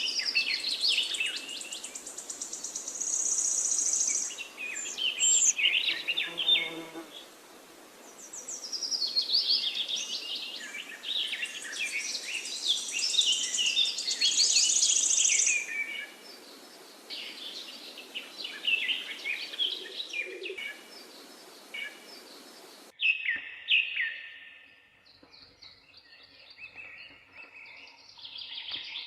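Several songbirds chirping and singing at once, with quick overlapping calls and high buzzy trills. About 23 s in, the background hiss cuts off abruptly and the calls become sparser and fainter.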